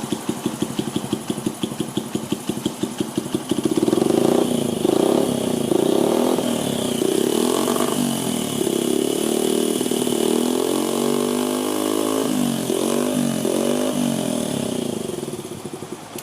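Honda XR50's small single-cylinder four-stroke engine idling through an aftermarket up-muffler, then revved again and again. There are several short throttle blips about a second apart, a longer rev rising and falling, and a few more blips before the sound falls away near the end.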